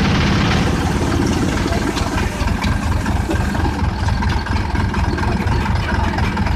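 Chaff cutter running steadily with a loud, low, engine-like rumble that pulses rapidly.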